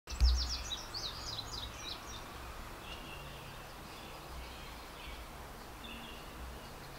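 Outdoor ambience: a bird sings a quick run of about ten falling high notes in the first two seconds, then a few faint chirps, over steady background noise and a low rumble. A low thump comes right at the start.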